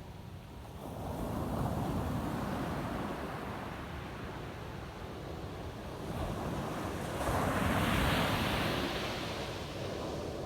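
Ocean waves breaking on a beach, the surf swelling about a second in and again, louder, near the end.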